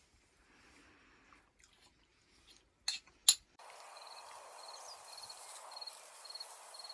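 Two sharp clicks a few seconds in. Then a steady outdoor hiss sets in, with a short high chirp repeating about twice a second.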